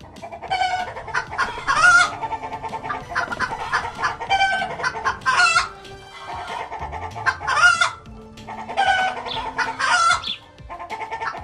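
Chickens clucking, with a rooster crowing, in repeated loud calls throughout.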